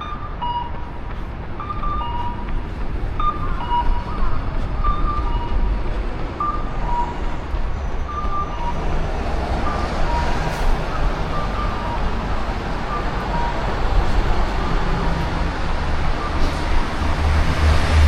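Road traffic running past, building in the second half, with a heavy vehicle's low rumble passing close near the end. Through the first half a two-note electronic signal repeats, a higher beep then a lower one, and fades under the traffic.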